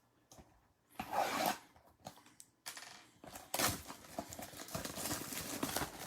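Trading cards and plastic card holders being handled: irregular rustling, sliding and small clicks, starting about a second in.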